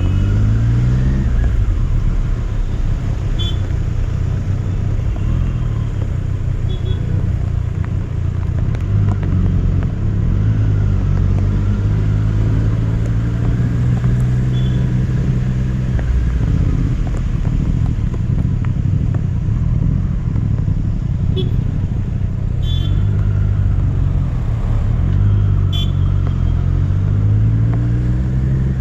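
Triumph Street Triple RS motorcycle's three-cylinder engine running on the move, rising in pitch as it accelerates near the start and again near the end, and rising and falling with the gear changes in between, over a heavy low rumble of road and wind noise.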